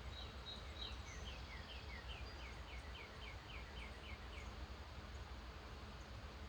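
A songbird sings one song: a run of short repeated notes, each slurring downward, about four a second, ending after about four seconds. A steady low background hum runs underneath.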